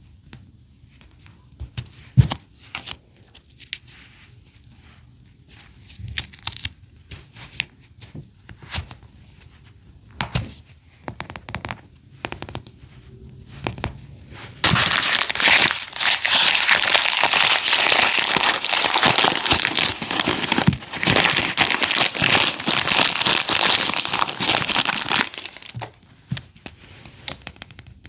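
Small plastic pieces clicking as they are handled, then about ten seconds of loud, continuous crinkling and tearing of thin plastic packaging, which stops abruptly.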